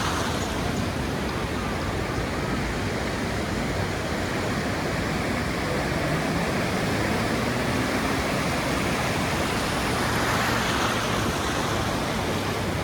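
Ocean surf washing steadily onto a beach, swelling twice, once at the start and again about ten seconds in.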